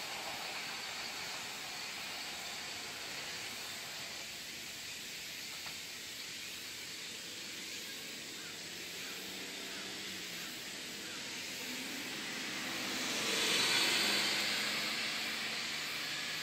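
Seibu 40000-series electric commuter train running away down the line, its sound fading to a faint rumble under a steady hiss. A broad swell of hissing noise rises and falls about thirteen seconds in.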